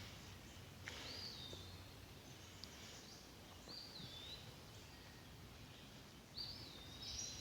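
A songbird singing faintly: three short whistled phrases, each a quick rise then fall in pitch, about two and a half seconds apart.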